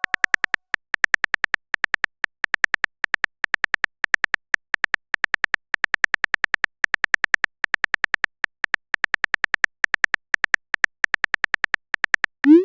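Phone typing sound effect: quick, uneven runs of short clicks, a few to several a second, like text being typed into a chat. Near the end a short rising swoop.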